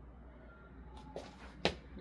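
Quiet room tone with a steady low hum; a faint click about a second in, then one sharp tap near the end.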